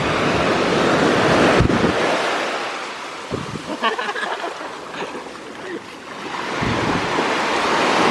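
Sea waves breaking and washing up a beach: the surf swells, falls to a lull, and swells again near the end, with some wind on the microphone.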